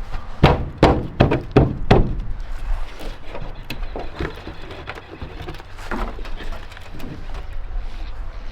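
Five heavy knocks in quick succession in the first two seconds, then scattered lighter knocks and clatter, from teardown work on an old pickup truck.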